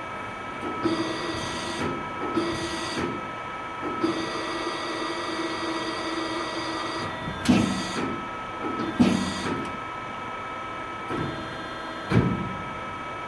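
A small electric power tool runs in three short spells, the longest about three seconds, over a steady whine; sharp knocks follow near the middle and again near the end.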